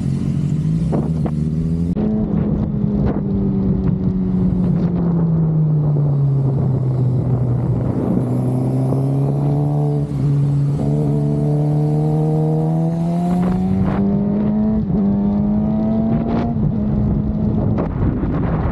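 Honda CB500 motorcycle engine running under way. The note steps up about two seconds in, sinks slowly over several seconds, then climbs again before settling near the end.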